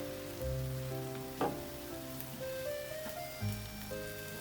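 Stir-fried gopchang sizzling in a frying pan, a steady frying hiss with a sharp click about a second and a half in, under background music with slow sustained notes.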